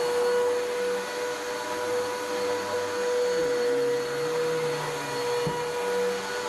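Vacuum cleaner running steadily over carpet with a constant motor whine, its lower hum shifting slightly in pitch as it is pushed across the pile, pre-vacuuming dry soil out of the carpet.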